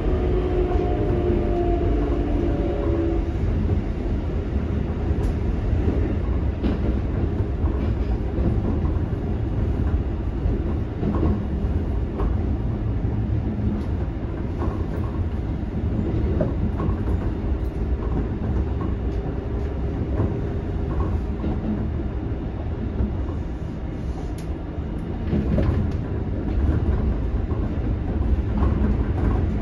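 Keikyu 600 series electric train heard from inside the car at speed: a steady rolling rumble of wheels on rail with clicks from rail joints. For the first few seconds a steady whine from its Toyo GTO-VVVF traction equipment sits over the rumble, then fades out; the rumble grows briefly louder near the end.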